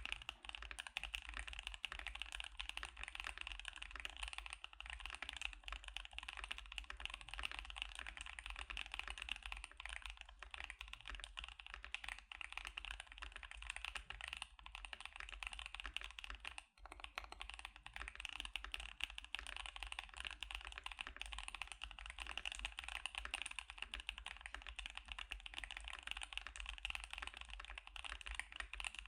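Continuous typing on a KBD75 mechanical keyboard with Gazzew Boba U4T tactile switches and CannonCaps CXA keycaps: a steady stream of keystrokes, with a brief pause about two-thirds of the way through.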